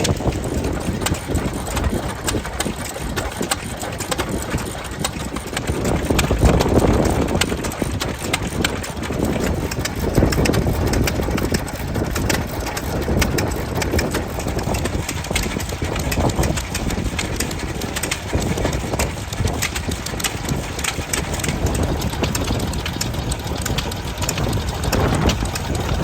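Vintage stationary engines running steadily, with a continual patter of clicks and knocks from their moving parts.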